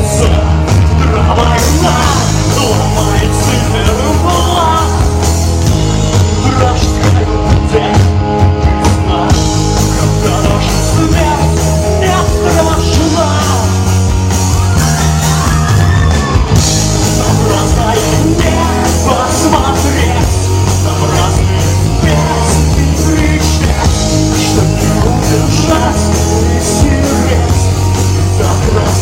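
Rock band playing live: a steady bass line and drums under a dense mix of guitars, with singing in places.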